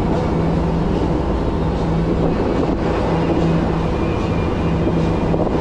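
Passenger boat under way, heard from on board: a steady, even drone of its engines with a constant low hum, over the rush of water and wind.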